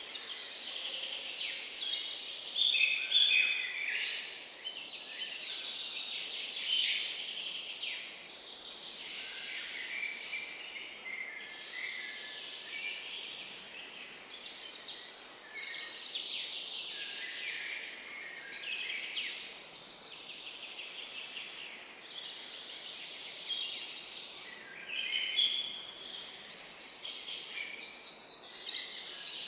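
Several small birds chirping and trilling at once, a dense, overlapping chorus of high, quick notes with no pause.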